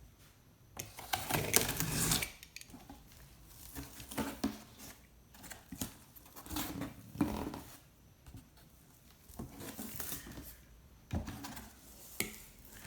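A cardboard shipping box being opened and its packed contents handled: irregular rustling and knocks, coming in short bursts with pauses between.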